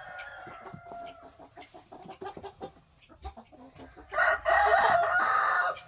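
Chickens clucking, then a rooster crowing loudly for about a second and a half, starting about four seconds in.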